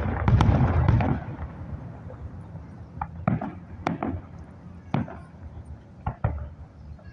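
Fireworks exploding: a cluster of deep booms in the first second or so, then scattered sharp cracks and bangs every second or so.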